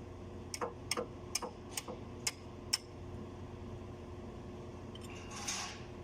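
Six sharp clicks about half a second apart, then a brief rustle near the end, over a steady hum.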